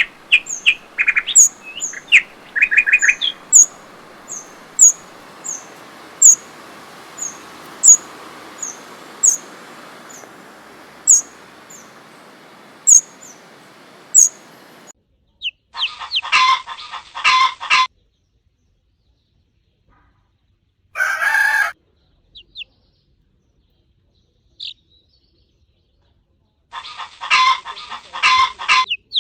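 A small bird and a chick calling: short, high peeps repeat about once or twice a second over a steady hiss for roughly the first half. After an abrupt cut come quiet gaps broken by clusters of rapid chirping, one shortly after the middle and one near the end.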